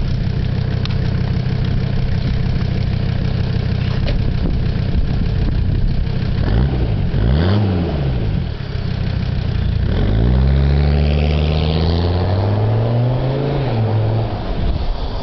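Mercedes-Benz 300SD diesel engine with a straight-piped exhaust idling, then revved twice: a short rev up and back down about halfway through, and a longer rev held for a couple of seconds near the end before dropping back.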